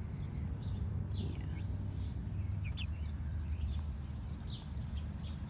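Young chickens peeping: short, high, falling chirps scattered every second or so, over a steady low rumble.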